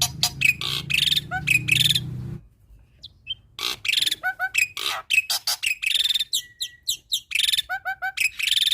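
Black-winged myna (jalak putih) singing a fast, varied song of rapid clicking runs, short whistled notes and harsh rasping calls. The song breaks off for about a second after two seconds, then resumes. A low hum sits under the start and stops at the break.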